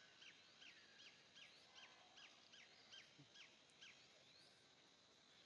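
Faint bird call: a run of short, high notes, each dropping in pitch, repeated about three times a second and stopping about four seconds in, over a faint steady high insect hum.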